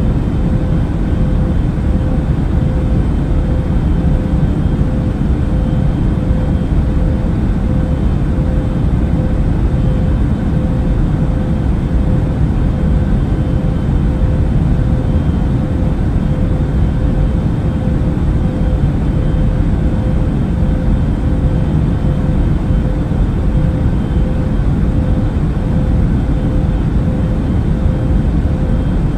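Airplane cabin noise in flight: a steady, even rumble with a constant hum running through it.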